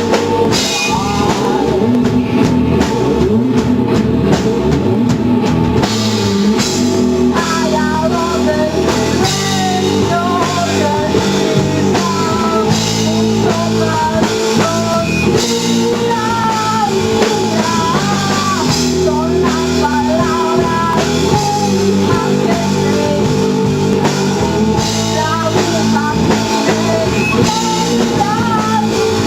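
A rock band playing live, with drum kit and guitars, and a voice singing a wavering melody from about seven seconds in.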